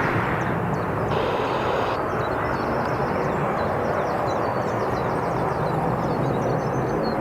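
Steady, even noise of an aircraft's engines, heard as a continuous rumble and rush with no change in level.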